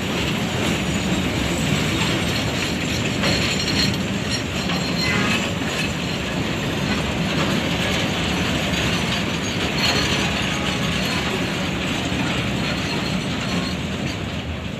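Freight train of crude palm oil tank wagons being shunted, rolling on the rails with a steady, loud running noise and a faint high squeal now and then.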